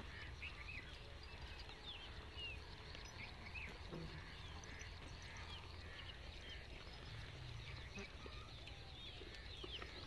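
Small birds chirping, many short high chirps scattered throughout, faint over a low steady rumble.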